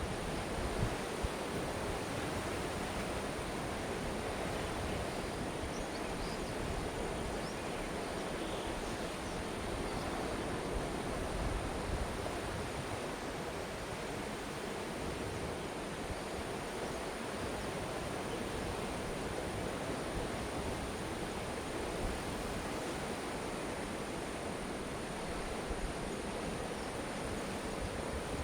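Sea waves washing against a rocky coast, a steady, unbroken surf noise.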